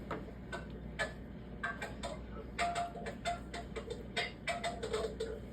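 Scissors snipping through bandage gauze and tape: a run of sharp, irregular clicks, some with a short metallic ring, coming faster in the second half.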